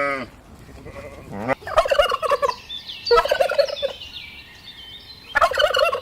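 Turkey gobbling: three rapid, rattling gobbles in a row, with short pauses between them.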